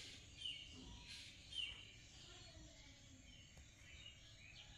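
Faint outdoor ambience with a few short, high bird chirps, the clearest about half a second and a second and a half in.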